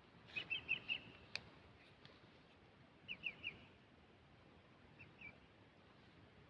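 A bird calling in short high chirps: a quick run of about five near the start, three about three seconds in, and two more near five seconds, over a faint steady outdoor hiss. A single sharp click sounds about a second and a half in.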